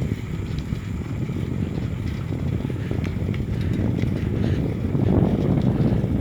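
Wind buffeting the microphone: a steady low rumble that swells about five seconds in.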